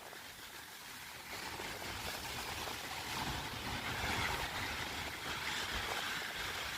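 Rainy, windy street ambience: a steady hiss of rain and tyres on wet road that grows louder about a second in, with wind rumbling on the microphone.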